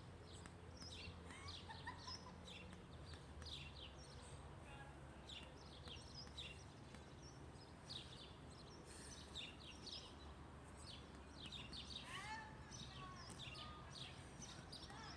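Faint outdoor ambience of small birds chirping: many short high chirps, with a pair of swooping calls about twelve seconds in, over a low steady hum.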